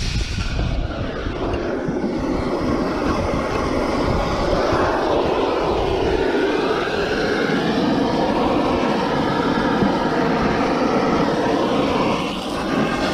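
A steady, loud mechanical drone, like engine or machinery noise, with a brief dip near the end.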